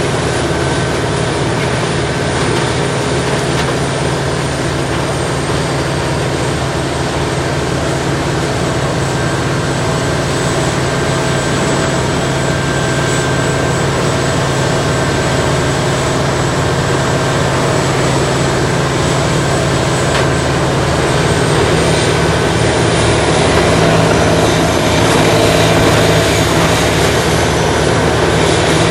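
A large Morbark tracked horizontal grinder running steadily while grinding brush and stumps, a loud, even machine drone. It grows somewhat louder in the last third.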